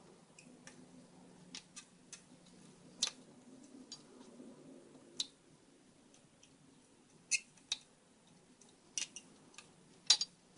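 Sparse, irregular light clicks and ticks of small electronic parts being handled: replacement capacitors being fitted into a circuit board, their wire leads tapping against it.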